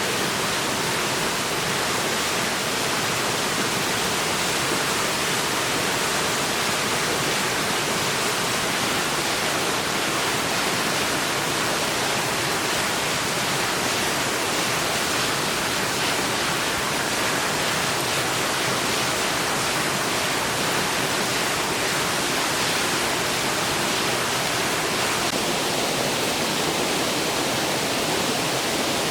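A clear mountain stream rushing steadily over rocks, a constant full rush of water.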